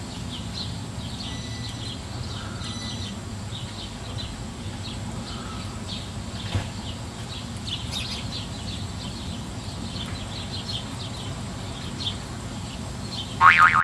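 Small birds chirping again and again in short high notes over a steady low outdoor rumble. A louder, fuller call or voice comes in near the end.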